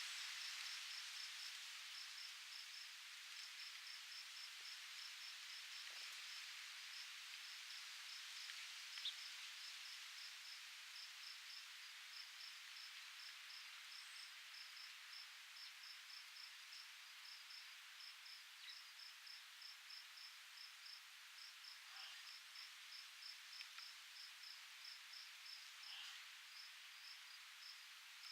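Faint, soft outdoor breeze noise that eases off over the first few seconds, with an insect chirping in rapid short pulses throughout. A few faint single chirps come near the middle and near the end.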